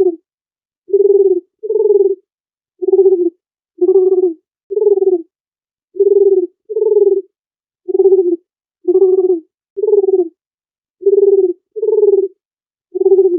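Dove cooing: about a dozen short, low coos in a phrase of two coos then three that repeats about every five seconds, with silence between the calls.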